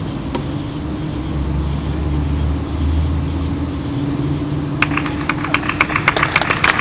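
A steady low rumble, then an audience beginning to applaud about five seconds in: scattered claps that quickly thicken into applause.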